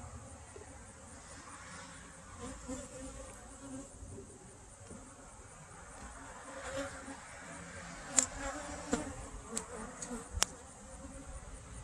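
Honey bees buzzing around an open hive, with about four sharp clicks near the end.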